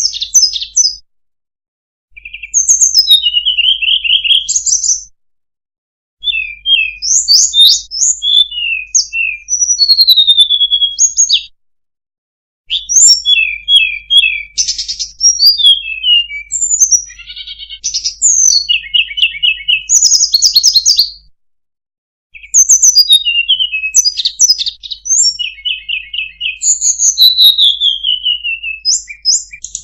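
Sulingan (tledekan) birdsong played as a lure call: quick high whistled phrases, rapid trills and downslurred notes. It comes in runs of a few seconds separated by brief complete silences, four times.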